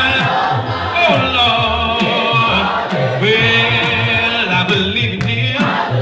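Gospel song in a church worship service: voices singing long held, bending notes over a low instrumental bass line.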